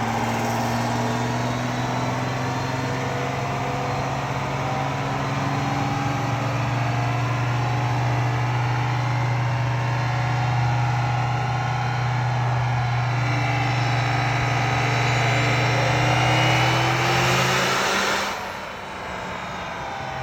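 Diesel pickup running hard on a chassis dyno. A steady low engine drone has a turbo whine that climbs in pitch over the last few seconds of the pull. About 18 seconds in, the sound drops off sharply as the throttle is let off.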